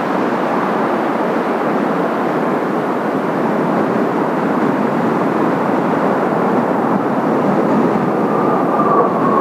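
Jet noise from the Kawasaki T-4 trainers' turbofan engines: a steady, loud rush, with a whine near the end that falls in pitch as a jet passes.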